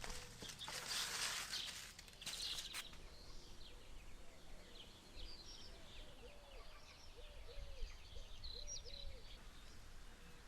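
Small birds chirping faintly, with a short burst of rustling in the first couple of seconds and a few soft repeated calls later on.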